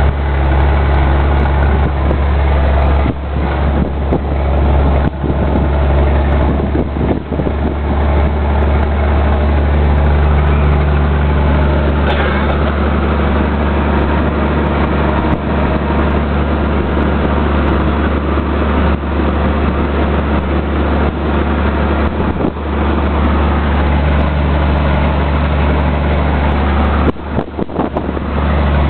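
Scania 124 truck's 12-litre straight-six diesel engine running steadily under way, with a low steady drone that dips briefly a few times, about three, five and seven seconds in and again near the end.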